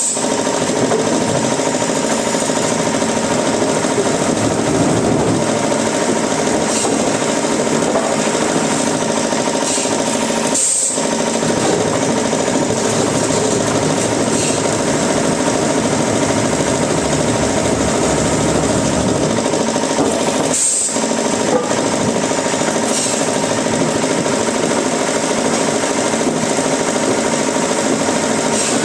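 Wood-processing machinery running continuously with a steady mechanical hum and rattle, dropping out for an instant twice.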